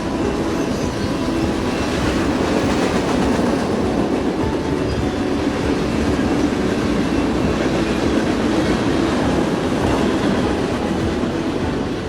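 A train running on the rails, a steady, continuous rumble of wheels and running gear.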